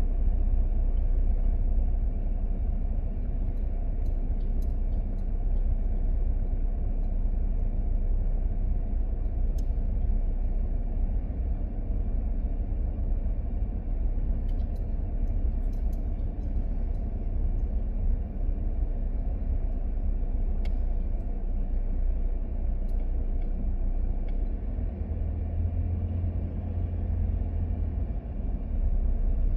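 Steady low rumble of a moving vehicle, with a few faint ticks scattered through.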